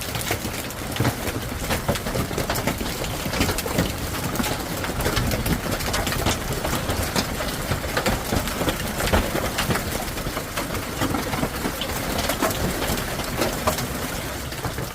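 Hailstones pelting hard surfaces: a dense, steady clatter of sharp impacts that cuts off abruptly at the end.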